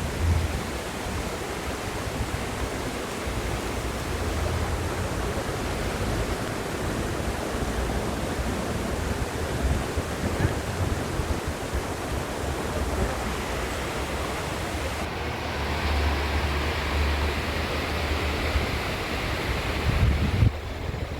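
Wind buffeting the microphone outdoors, with uneven low rumbles over a steady rushing noise.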